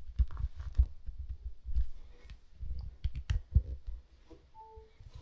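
Scattered clicks, knocks and low thumps of handling. About four and a half seconds in comes a short two-note electronic beep, a higher note then a lower one.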